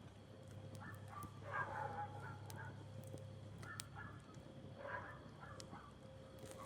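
Campfire crackling faintly, with a few sharp pops, over faint distant animal calls that come and go. A low steady hum underneath stops about four seconds in.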